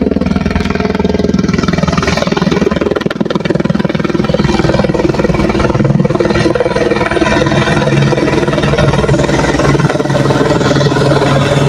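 Helicopter running close by, a steady loud engine and rotor sound whose main tone drops slightly about halfway through.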